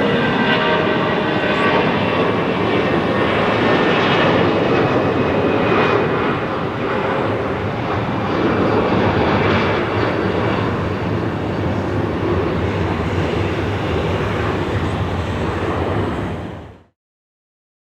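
Jet airliner engines running, a steady loud rush with a faint whine, fading out quickly near the end.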